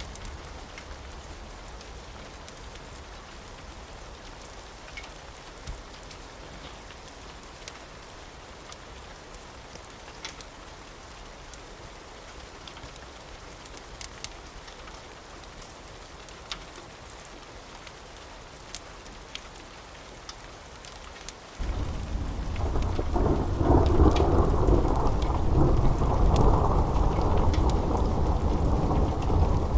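Steady rain with scattered sharp pops, then about three quarters of the way in a loud rumble of thunder starts suddenly and rolls on to the end.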